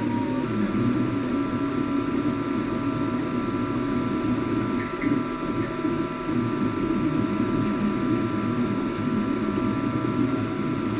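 Ultimaker-style 3D printer running: its stepper motors give a steady whine of several held tones, coming in about half a second in, over a continuous low rumble.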